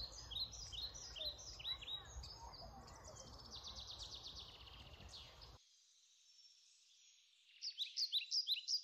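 Songbirds singing, many short quick chirps repeated, over a low rumble that cuts off abruptly about halfway; after a quieter moment the chirping comes back louder near the end.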